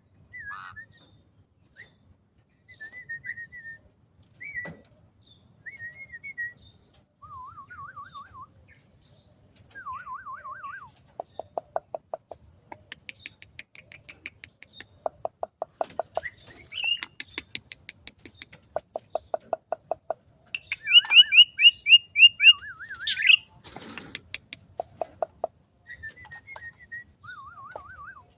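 A starling (jalak) singing a long, varied song: short whistles, warbling trills and fast runs of repeated rattling notes, with the loudest, highest run past two-thirds of the way through, followed by a brief harsh burst.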